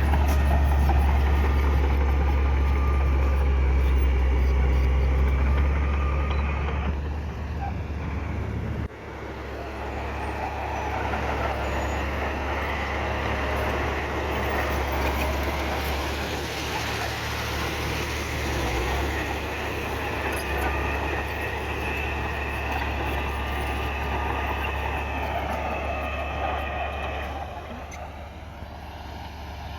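Diesel engine of heavy earthmoving equipment running with a deep, steady rumble. About nine seconds in the sound drops suddenly and then carries on a little quieter.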